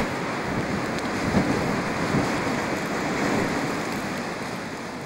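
Storm wind rushing through an abandoned building, a steady rushing noise with no distinct tones that slowly fades out near the end.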